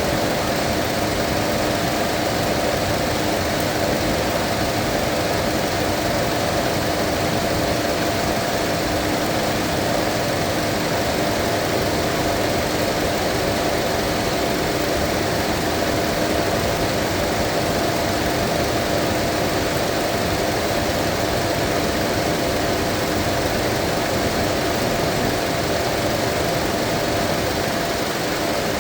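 Mazda 2.5 engine idling steadily while its cooling system is bled of trapped air. A steady hum with a faint whine; a lower tone drops out about halfway through.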